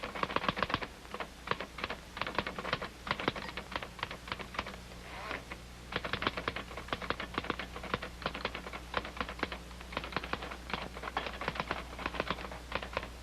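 Typewriter keys clattering in fast, uneven runs of strokes, with a short pause about five seconds in.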